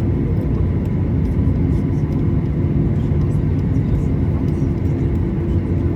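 Steady low rumble inside the cabin of a Boeing 737-800, its two CFM56-7B engines idling as the airliner taxis, with faint steady tones above the rumble.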